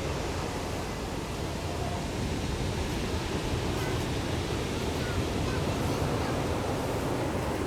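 Ocean surf breaking and washing steadily on the shore, swelling a little in the second half, with faint distant voices.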